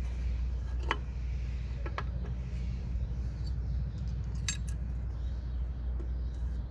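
A few sharp metallic clinks of hand tools and metal parts being handled, spread out a second or two apart, the loudest pair about four and a half seconds in, over a steady low hum.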